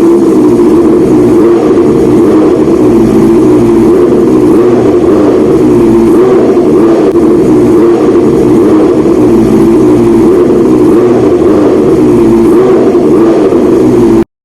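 Honda CBR650R inline-four engine running loud through a titanium full-system aftermarket exhaust, held at steady raised revs. It cuts off abruptly near the end.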